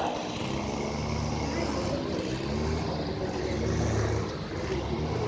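An engine running, a steady low hum that drifts slightly in pitch.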